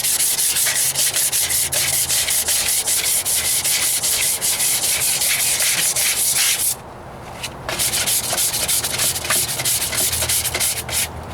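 Sandpaper on a hand sanding block rubbed in quick back-and-forth strokes over body filler and spot putty on a truck's rocker panel. The strokes stop suddenly about two-thirds of the way in, then start again more lightly.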